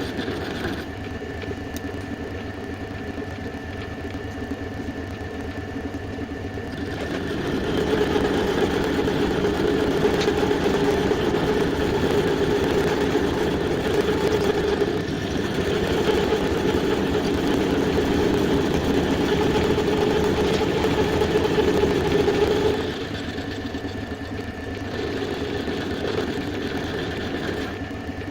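Homemade belt sander's electric motor running steadily, becoming louder and harsher for about fifteen seconds in the middle before settling back.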